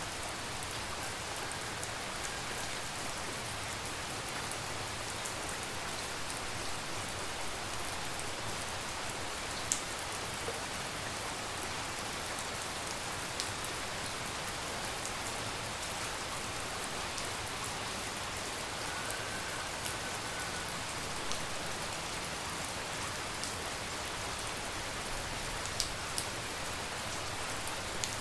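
Steady tropical rain falling at night, an even hiss, with a few louder drops ticking sharply now and then.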